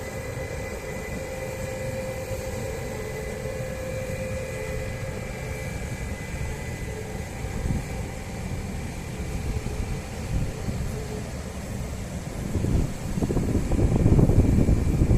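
Bernina Railway electric train running over the track: a low rumble with steady whining tones from its motors, the whine fading partway through. Wind buffets the microphone near the end, louder and gusty.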